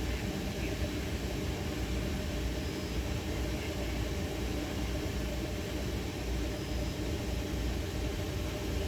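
A steady mechanical rumble with a hiss and a faint steady hum, unchanging throughout, like a machine or motor running.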